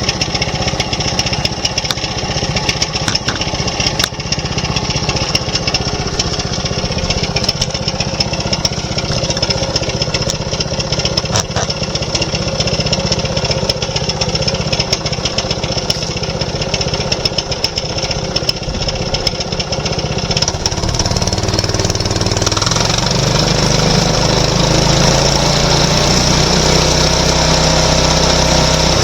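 Sawmill's engine running steadily, then throttled up about two-thirds of the way in, rising in pitch and getting louder, and holding at the higher speed. It is being wound up for a first test run with no log on the mill.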